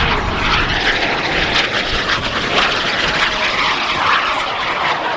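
Small single-seat mini jet's TJ100 turbojet engine in flight, heard as a steady, loud rushing jet noise.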